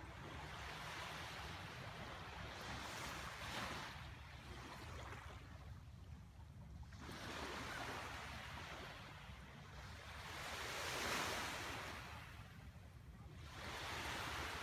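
Small waves washing onto the shore in slow surges a few seconds apart, the strongest about eleven seconds in, over a steady low rumble.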